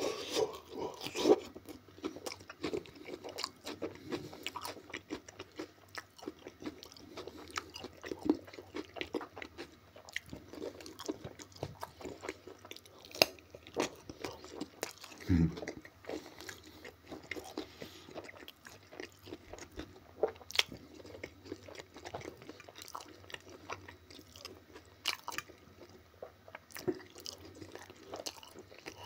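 Close-up chewing and crunching of Korean-style marinated pig ears, the gristly ear cartilage crunching between the teeth in irregular bites, with a few fork taps on the ceramic plate.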